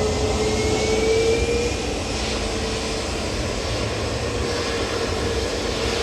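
Jet airliner engines running: a steady whine over a low rumble, the whine creeping up in pitch over the first couple of seconds.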